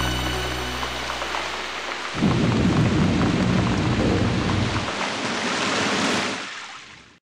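Rain falling steadily with a low rumble of thunder that comes in about two seconds in and rolls on for about three seconds. The whole thing fades out near the end.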